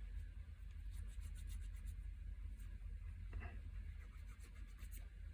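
Faint light scratching and small ticks of a fine metal pick or wire working at a disassembled Tecumseh carburetor's main jet, cleaning it out, with one slightly longer scrape about three and a half seconds in.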